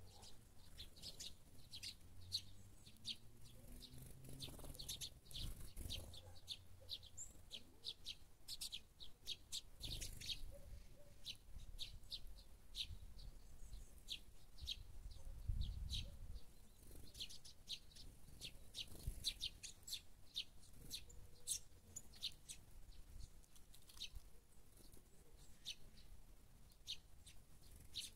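Small songbirds chirping: many short, high chirps, often several a second. A few low rumbles come and go, the strongest about halfway through.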